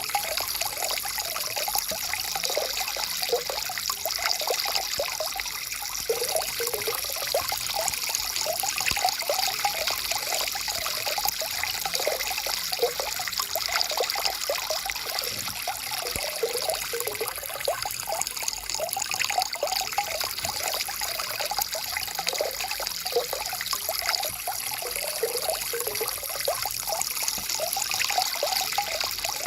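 Stream water flowing and trickling over rocks, a steady babbling with many small gurgles and an even hiss.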